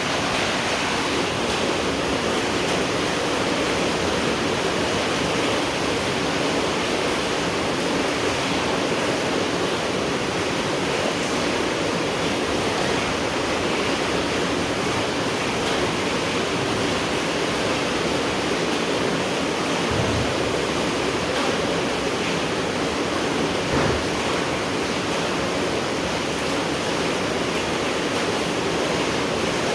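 Steady heavy night rain falling, an even hiss of rain noise. Two soft low thumps come in the second half.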